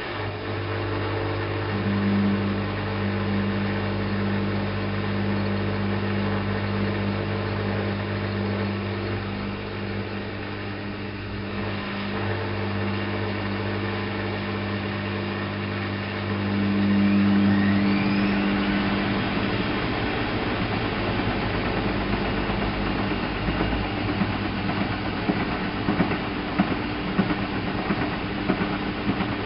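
Alaska WA8200 E front-loading washing machine running with a steady low hum. About two-thirds of the way through the hum drops away and a short rising whine follows as the drum speeds up, then a steady rattling, ticking run.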